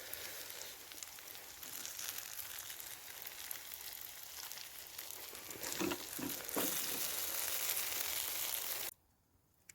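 Chicken tikka masala sizzling in a pan, a steady frying hiss, with a few short knocks about six seconds in. The sizzle gets louder for a couple of seconds and then cuts off abruptly near the end.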